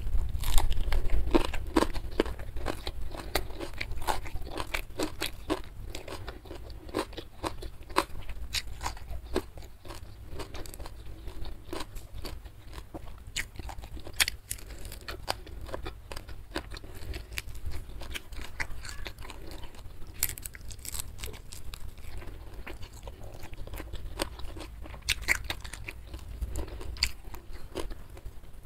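Close-miked eating: steady chewing of a meal with frequent crunches and sharp mouth clicks scattered throughout.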